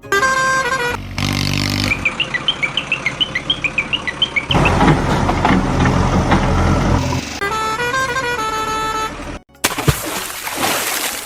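A string of short vehicle sound effects: horn-like tone melodies that step up and down, a run of rapid chirping beeps, and a stretch of low rumbling engine noise, cut one after another.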